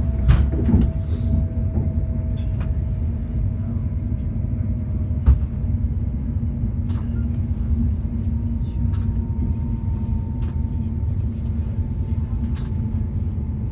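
Passenger train heard from inside the carriage while running: a steady low rumble with a faint whine that slowly rises in pitch, scattered light clicks, and one short thump about five seconds in.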